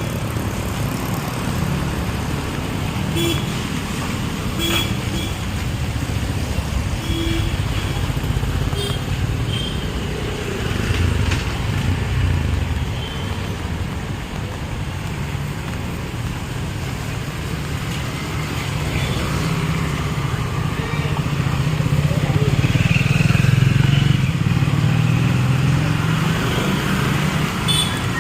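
Street traffic of motorcycles and cars driving past, with a louder engine passing close by about twenty seconds in.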